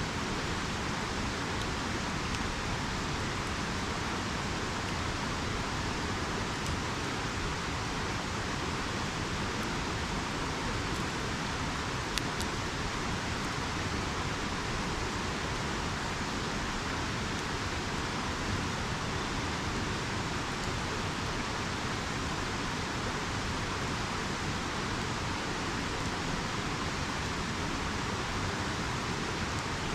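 A river rushing steadily, with a few faint campfire crackles and one sharper pop about twelve seconds in.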